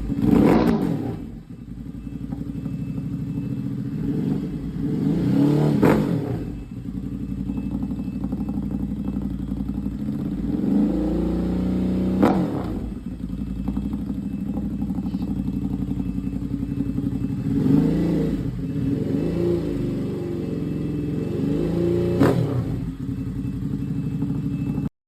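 Ducati 950 SP's L-twin engine idling through an SC Project S1 twin exhaust with its dB killers removed, blipped up and back down to idle several times.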